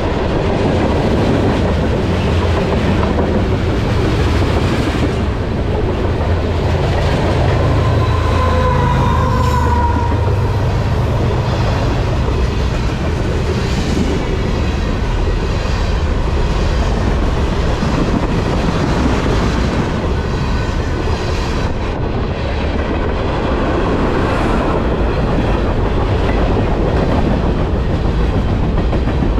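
Canadian Pacific freight train cars rolling past close by: a steady loud rumble and clatter of wheels on the rails, with a brief wheel squeal about nine seconds in.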